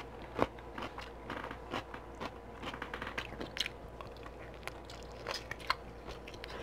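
A person chewing and biting into saucy beef ribs close to the microphone: irregular small wet clicks and smacks of mouth and meat.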